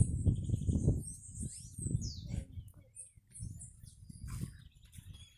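Small birds chirping and twittering in many short high calls, with a low rumble on the microphone loudest in the first second or so.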